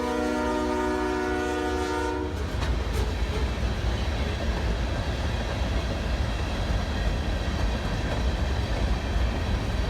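Diesel freight locomotive horn sounding, cutting off about two seconds in. Then the freight train rolls past with a low rumble and the clatter of wheels on the rails.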